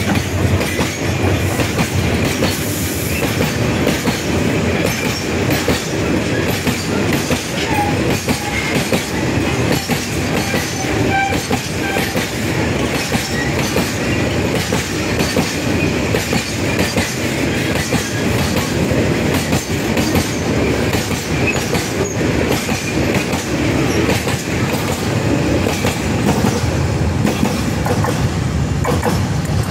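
Freight train of loaded oil tank wagons rolling past at speed: a loud, steady rattle of steel wheels clicking over the rail joints.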